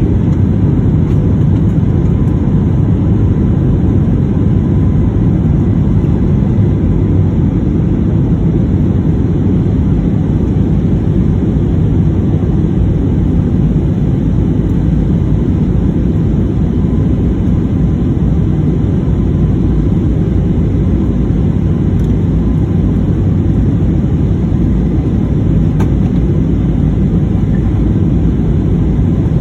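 Passenger airliner's engine and airflow noise: a loud, steady low rumble with a faint steady high whine.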